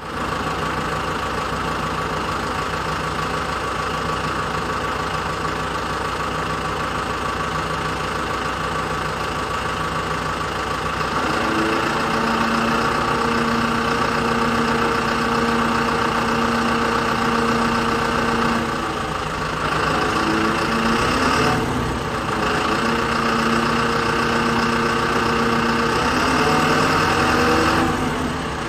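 Engine idling steadily. About a third of the way in it is joined by a steadier droning tone that shifts pitch a few times.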